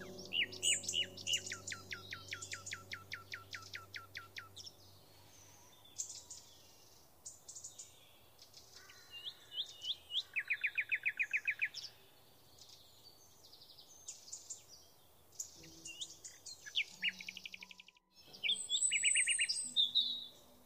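Several birds singing and calling: runs of quick repeated chirps, a fast trill a little past the middle, and more scattered calls. The calls drop out briefly near the end. Faint steady music tones fade out in the first few seconds.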